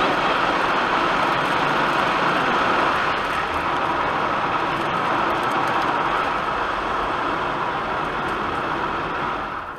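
Automatic tunnel car wash equipment running: a steady, loud rushing noise that cuts off sharply near the end.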